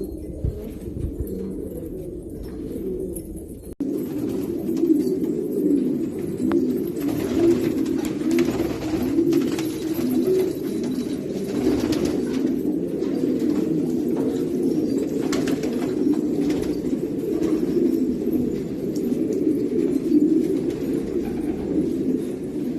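A flock of domestic pigeons cooing, many voices overlapping in a continuous low warble. There is a brief break about four seconds in.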